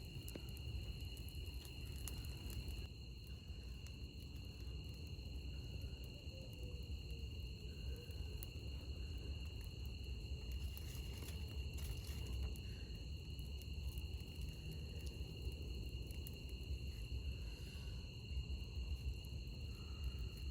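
Night insects, crickets among them, chirring steadily in two high, unbroken tones, over a low steady background noise.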